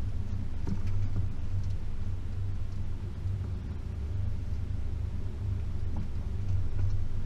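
Range Rover P38's 4.0-litre V8 engine running steadily at low revs, a constant low drone, with a few faint knocks.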